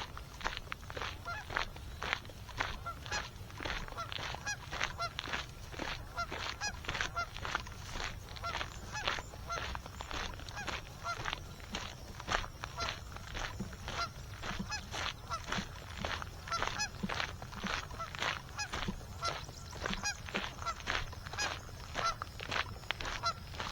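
Geese honking over and over, about two to three honks a second without a break.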